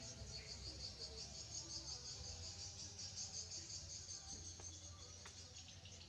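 Insects chirping steadily outdoors, a continuous high, rapidly pulsing trill, over a low background rumble.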